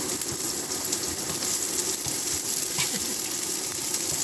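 Shallots sizzling steadily in hot oil in a pan, a constant frying hiss with a few faint crackles.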